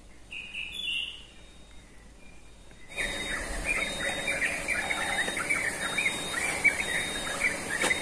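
A couple of short bird chirps, then from about three seconds in a busy chorus of birds chirping.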